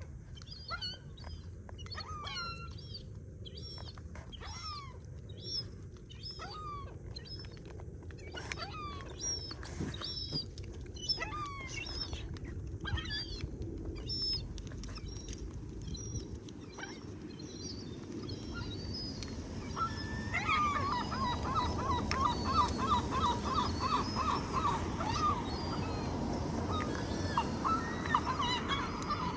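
Gulls calling: many short, falling, whistled peeps of begging gull chicks. About twenty seconds in, a fast run of repeated calls starts and grows louder. A steady low rumble runs underneath.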